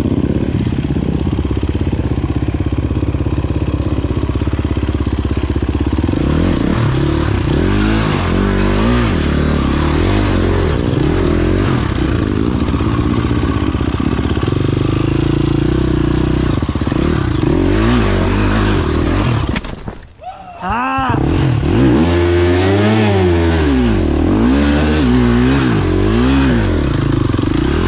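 Dirt bike engine being ridden, its pitch rising and falling again and again with the throttle and gear changes. About twenty seconds in the sound drops away sharply for about a second, then the revving picks up again.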